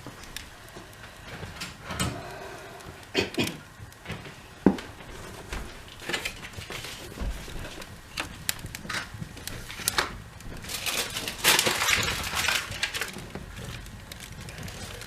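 Kindling and cardboard being handled in a fireplace: scattered knocks and clatter of wood, with a stretch of rustling about eleven seconds in.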